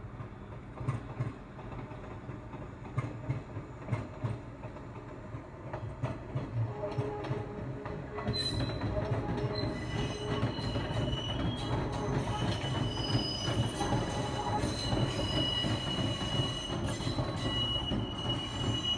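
JNR-type 413 series electric train rolling slowly along the tracks, with a steady low rumble and scattered clicks of the wheels over rail joints. About eight seconds in, a high-pitched squeal sets in, and the sound grows louder as the train comes closer.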